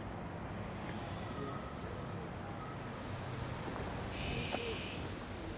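Azure-winged magpies calling at the nest: a short, thin high call under two seconds in, then a harsh, rasping call lasting about half a second around four seconds in.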